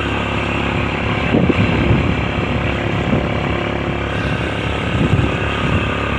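A vehicle's engine running steadily while travelling, heard from on board, with a few brief louder knocks and jolts along the way.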